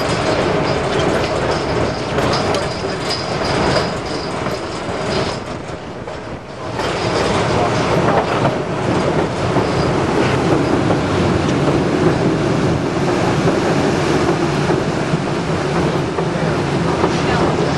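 White Pass & Yukon Route narrow-gauge passenger train running on the rails, heard from aboard on an open car platform: a steady rumble of wheels on track, with a faint, thin, high wheel squeal over the first five seconds or so.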